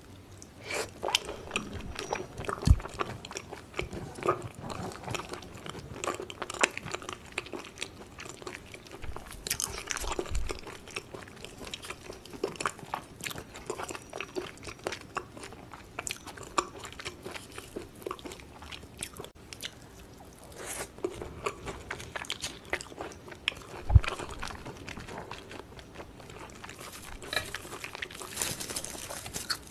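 Close-miked eating sounds: chewing and biting of raw beef tartare, with frequent short clicks and smacks. A louder knock comes a couple of seconds in and another about 24 seconds in.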